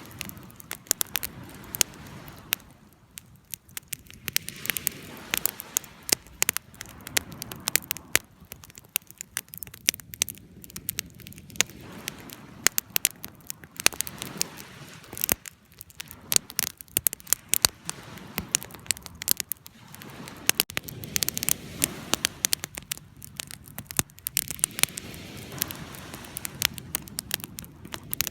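Wood fire burning: a steady stream of sharp crackles and pops over a soft low rush of flames that swells and fades every few seconds.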